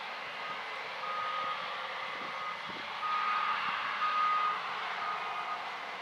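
A backup alarm beeping about once a second, each beep about half a second long, over the steady running noise of harvest machinery.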